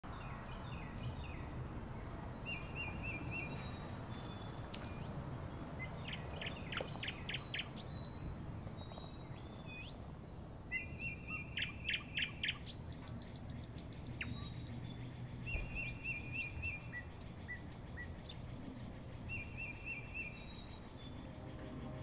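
Wild birds singing and calling: short trilled phrases repeated every few seconds and two bursts of quick high notes, over low steady background noise.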